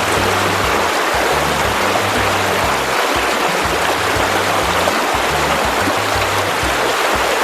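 Steady rush of flowing stream water, with a background music track's low bass line stepping between notes underneath.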